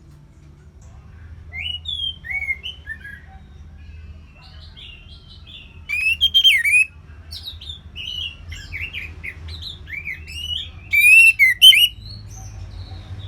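Songbird singing a varied run of short whistled phrases, with two loud bursts of rapid, high notes, one about six seconds in and one near the end, over a low steady hum.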